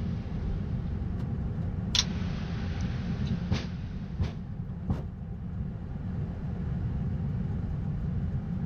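Flight-deck rumble of an Airbus A220-100 slowing on the runway after touchdown, with a hiss of airflow that fades out about five seconds in as the jet decelerates. A few sharp clicks sound in the first five seconds.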